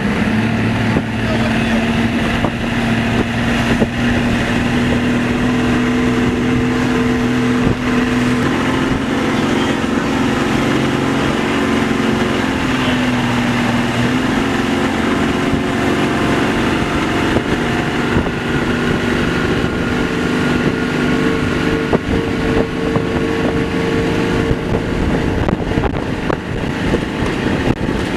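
Motorboat engine running steadily under way, its pitch shifting slightly a few times, with wind buffeting the microphone.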